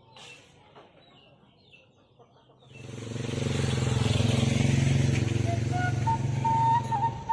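A motorcycle engine comes in from about three seconds in, quickly growing loud and running steadily with a hiss on top. Near the end a Sundanese suling bamboo flute begins a long, slightly wavering note.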